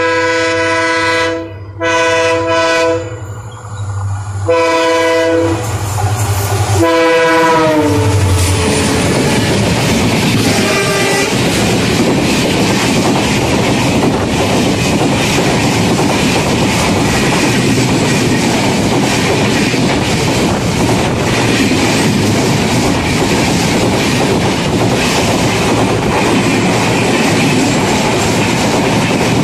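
A train horn sounds in several blasts over the first eight seconds, the last one dropping in pitch. Then an oncoming passenger train of red-and-grey coaches passes alongside on the next track with a loud, steady rumble and wheel clatter, heard from the open doorway of a moving train.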